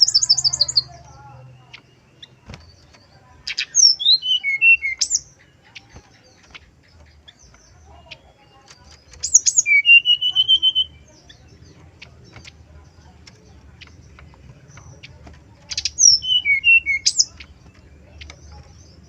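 Male brown-chested jungle flycatcher singing: short phrases of sharp high notes that drop to lower, slurred notes, three full phrases about six seconds apart, with the end of another at the very start. It is a lure song meant to get other birds of its kind to answer.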